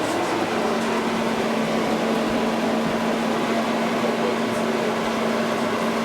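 Steady electrical and mechanical hum inside a tram, with one constant low tone over an even noise.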